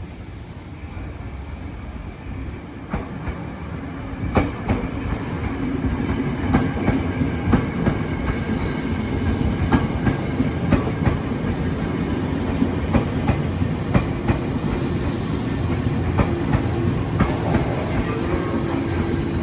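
Ex-Chiyoda Line Tokyo Metro 6000-series electric commuter train approaching and running past, getting steadily louder. Its wheels click over the rail joints about once or twice a second, over a steady rumble and hum, and a thin high tone comes in near the end.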